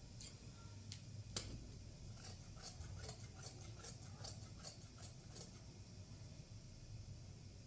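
A series of light, sharp clicks over a low steady hum, with one louder snap about a second and a half in, then a run of about three clicks a second that stops about two seconds before the end.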